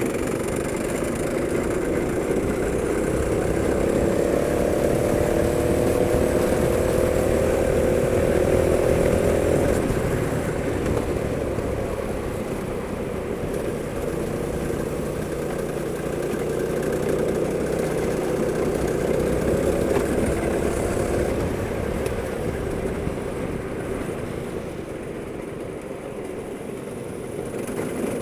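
Go-kart engine running under way. Its pitch climbs steadily for several seconds and drops back about ten seconds in, then rises and eases off again later on.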